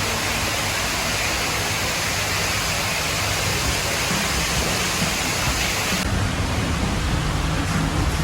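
A steady, even rushing noise, like falling water, holding at a constant level.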